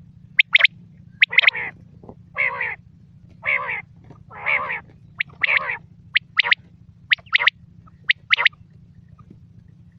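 Quail calling: short, sharp notes in quick pairs, then five longer, buzzier calls about a second apart, then quick pairs again, over a steady low hum.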